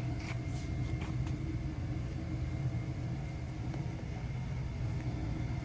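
Steady low mechanical rumble with a faint steady high tone, and a few light ticks in the first second or so.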